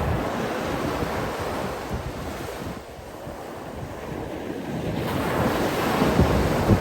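Sea waves washing in, a steady surf noise that eases off about three seconds in and builds to a louder surge near the end, with wind buffeting the microphone.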